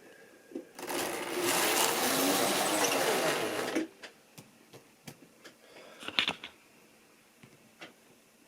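Model railway train running past close by: the locomotive's small electric motor whirs loudly for about three seconds, then scattered light clicks and ticks follow, with a sharper cluster about six seconds in.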